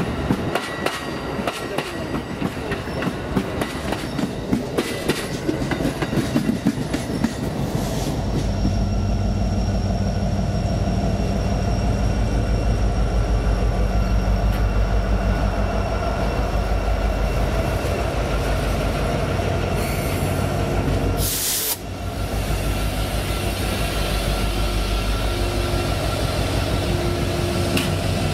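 Amtrak bilevel passenger cars rolling past, their wheels clicking rapidly over the rail joints. About eight seconds in, this gives way to Kansas City Southern diesel-electric locomotives passing close by: a loud steady low engine drone with a high steady whine over it. The drone breaks off sharply near the end and then resumes.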